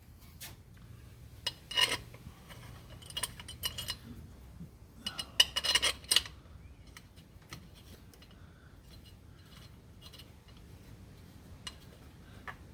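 Small metal carburetor parts and hand tools clinking and scraping in a few short bursts of clatter, the loudest about five and a half seconds in.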